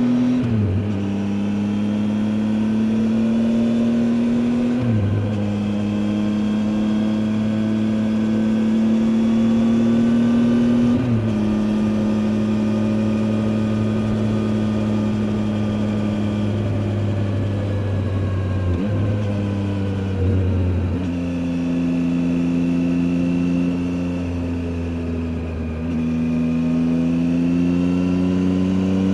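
Triumph Tiger 800 XCA's inline three-cylinder engine under way, its pitch climbing steadily and then dropping sharply at upshifts about a second in, at about five seconds and at about eleven seconds. Past the middle the pitch dips and shifts again, then climbs once more near the end.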